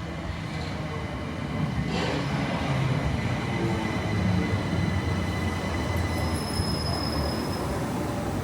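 Four-coach Southeastern electric train running on the rails: a steady rumble with faint high whining tones, a single knock about two seconds in, and a thin high squeal between about six and seven and a half seconds.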